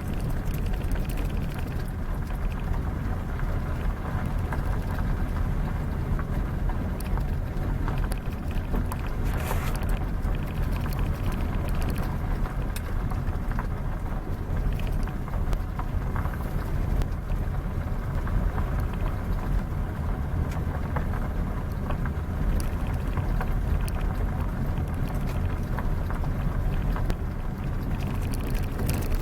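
A moving vehicle's engine and road noise: a steady low rumble with a faint engine hum, and a few light clicks.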